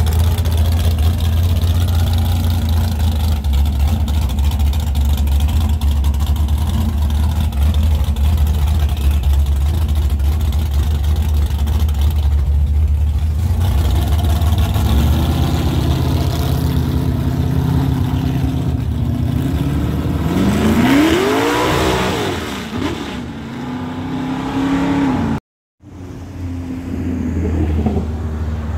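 An old Ford pickup's engine idling close by with a deep steady rumble while other cars roll past in slow traffic. About 21 seconds in, a car engine revs up and back down. Near the end the sound drops out for a moment.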